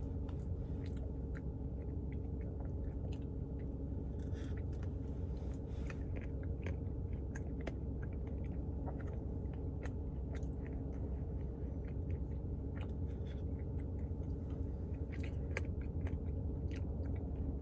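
A person chewing and eating mouthfuls of Blizzard soft-serve with cake and candy pieces, with many small mouth and spoon clicks, over a steady low hum.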